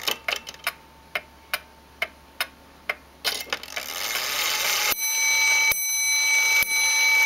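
Victorian walnut 8-day shelf kitchen clock ticking steadily, then a whirring of its striking train builds from about three seconds in, and from about five seconds in it strikes its gong, three ringing strikes a little under a second apart.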